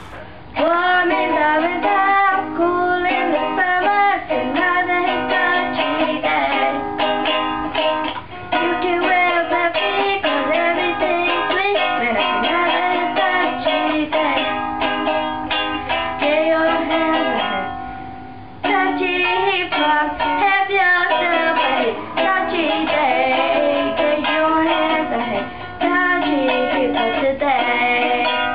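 A song sung to ukulele accompaniment, with a brief break about eighteen seconds in.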